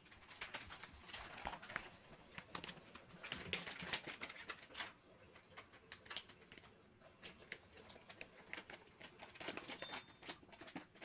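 Irregular soft clicks and taps in a small room, busiest twice.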